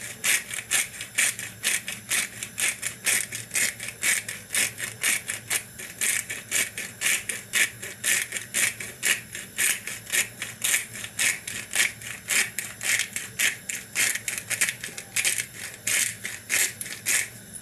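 Hand pepper mill grinding black pepper over a pot, a steady run of crisp crunching clicks, about four a second, that stops at the end.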